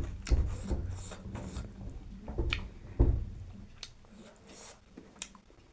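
Close-up chewing and wet mouth sounds of a person eating, made of irregular short smacks and clicks. There are heavier low knocks near the start and about three seconds in.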